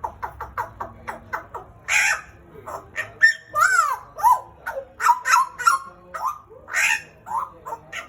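Pied butcherbird singing. It opens with a quick run of short clipped notes, then a varied string of loud whistled notes that slide up and down, mixed with a few harsh, rough notes.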